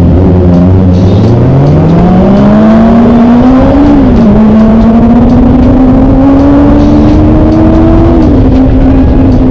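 Kawasaki ZX25R's 250 cc inline-four engine accelerating under way. The revs climb over the first few seconds, dip briefly at a gear change about four seconds in, climb slowly again, and ease off near the end.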